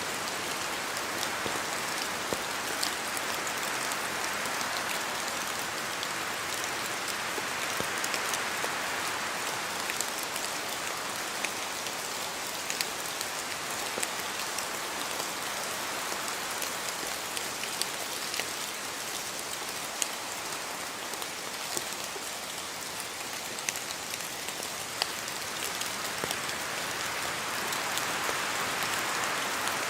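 Steady rain in a forest, with a constant hiss and many separate drops tapping down from the trees, swelling a little twice.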